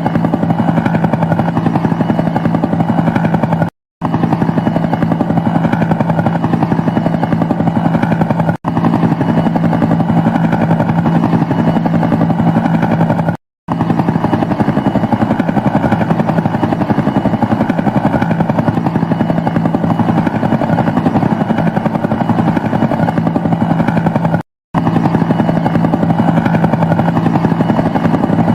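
Military helicopter rotors and turbine engines running steadily with a fast, even chop and a constant low drone. The sound drops out to silence for a moment four times: about four seconds in, near nine seconds, midway and near the end.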